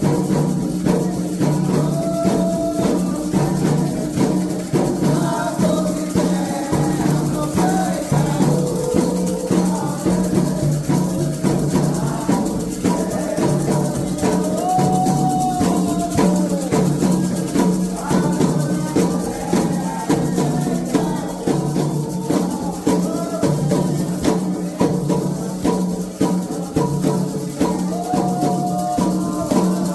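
Candomblé ritual music: fast, steady hand-drum and rattle percussion with a chanted song line rising and falling over it.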